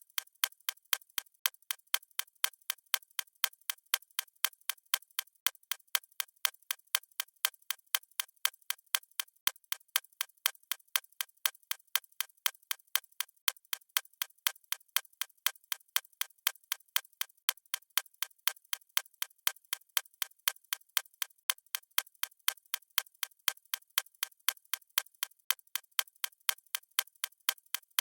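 Clock ticking at a steady, even pace, with louder and softer ticks alternating.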